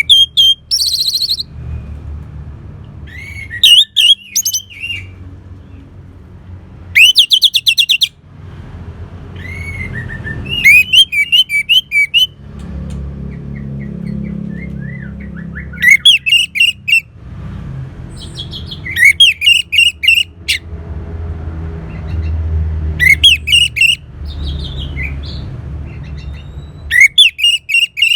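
Orange-headed thrush singing: short loud phrases of quick repeated and gliding notes, about eight of them, one every three to four seconds, over a steady low hum. This is song used as a lure to set other orange-headed thrushes singing.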